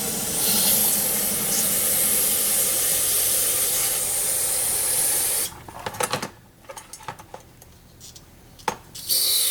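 Aerosol carburetor cleaner spraying in a long steady hiss onto a carburetor to blast off built-up crud, cutting off about five and a half seconds in. A few light clicks and taps follow, then a short second burst of spray near the end.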